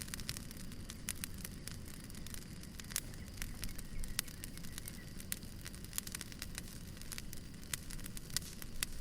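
Wood fire crackling: irregular sharp pops and snaps of burning logs over a steady low rumble of the flames.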